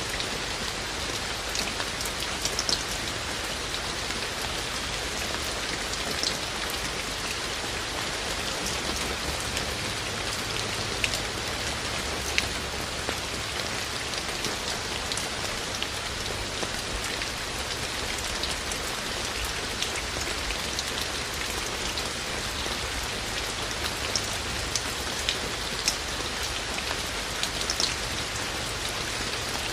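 Steady rain falling, with individual raindrops ticking sharply and irregularly on nearby surfaces.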